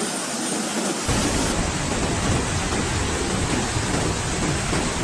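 Heavy storm rain hissing steadily, with a deep rumble joining about a second in.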